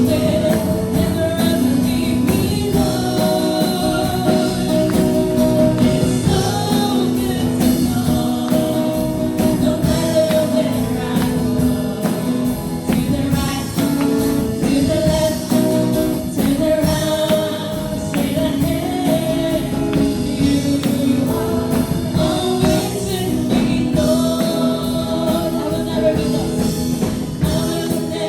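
Christian worship song: several voices singing together over continuous instrumental accompaniment.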